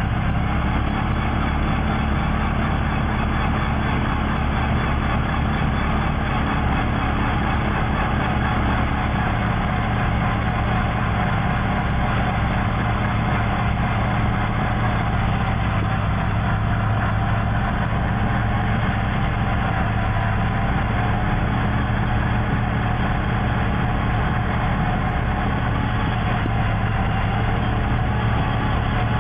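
Heavy vehicle engine running steadily, a low, even drone that neither rises nor falls.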